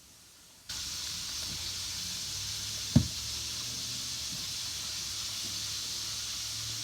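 A steady hiss over a low hum that starts suddenly just under a second in, with one sharp knock about three seconds in.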